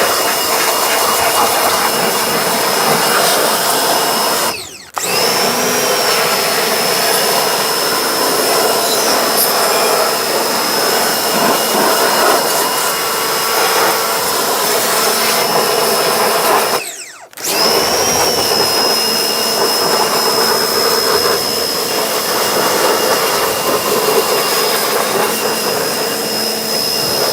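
Pressure washer running, its water jet hissing under a steady high whine. It cuts out briefly twice, about five seconds in and again around seventeen seconds, as the trigger is let go, and starts up again each time.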